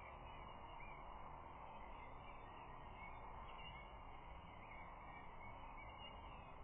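Faint steady outdoor background noise with faint, scattered distant bird calls.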